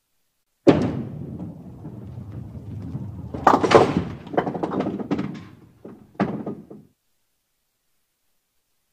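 Bowling: a ball lands on the lane with a thud, rolls with a low rumble for about three seconds, then crashes into the pins, which clatter and knock for a few seconds.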